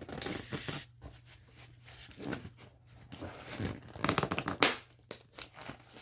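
Hands wrestling with a hard-to-open mailing package: the packaging crinkles and rustles in irregular bursts, loudest about four to five seconds in, with a sharp snap near the end of that stretch.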